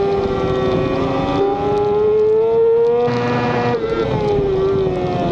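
Racing motorcycle engine running at high revs, heard onboard during a race. The pitch climbs slowly, then drops away about four seconds in.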